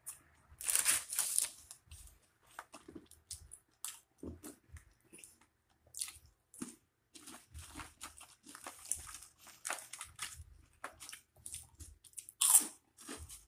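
A person biting and chewing crunchy food close to the microphone: irregular crisp crunches and smacking chews, the loudest bites about a second in and near the end.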